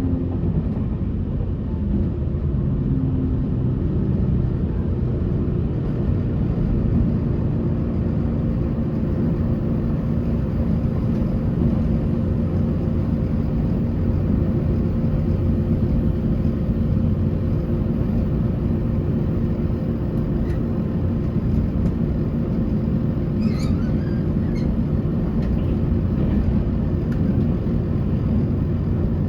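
Passenger train running at steady speed: a steady low rumble of wheels on rail with a constant low hum. A few faint, brief squeaks come a little past the middle.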